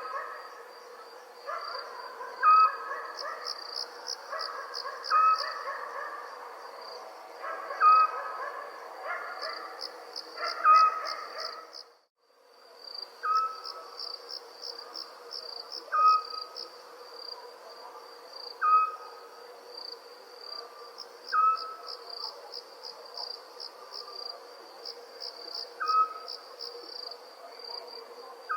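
Crickets trilling in a steady pulsing chorus, with an owl giving a short single hoot about every two and a half to three seconds. The sound drops out briefly near the middle, then resumes.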